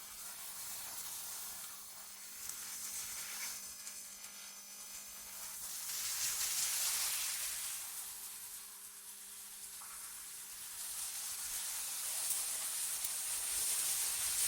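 AI-generated wind ambience: a high, airy hiss that swells and fades in slow gusts, loudest about six to eight seconds in and again near the end. A faint steady low hum runs underneath.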